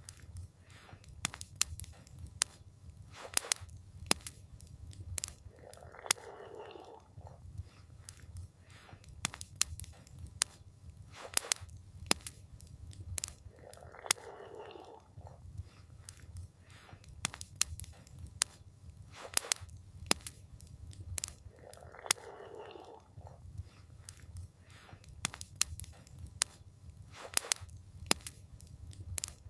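Campfire crackling with frequent sharp pops and snaps over a low steady rumble. A soft swell of noise returns about every eight seconds.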